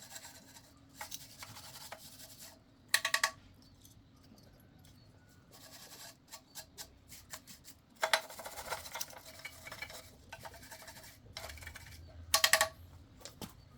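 Metal tools and parts clinking and scraping during hands-on repair work. Three louder ringing metal clanks come about three seconds in, about eight seconds in, and near the end.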